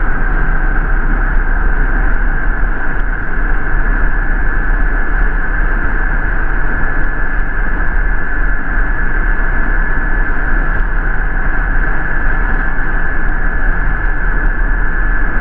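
Cabin noise inside a moving MTA city bus: a steady rumble of engine and road noise with a thin, steady high whine over it.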